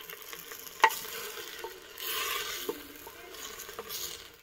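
Wooden spoon stirring shajgan greens and onions frying in oil in a clay pot, with a steady sizzle. A few sharp knocks of the spoon against the pot stand out, the loudest about a second in.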